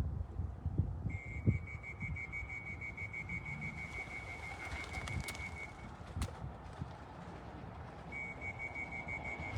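A pea whistle blown in two long trills, about four and a half seconds and then from about eight seconds in, to call returning racing pigeons down into the loft trap. Low wind rumble runs underneath, with a sharp click about six seconds in.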